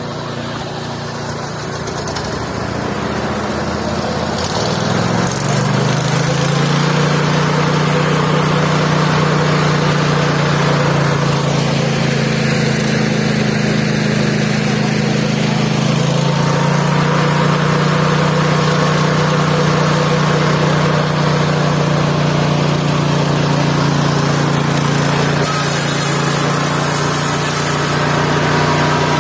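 Engine of a mobile band sawmill running, speeding up about five seconds in and then holding a steady, even pitch.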